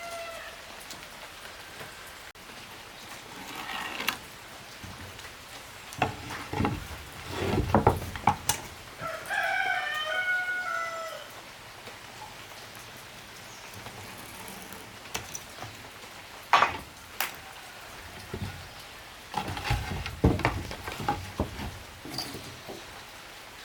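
A rooster crows once, about ten seconds in, over a steady background hiss. Scattered knocks and thumps come in clusters, the loudest about eight and seventeen seconds in.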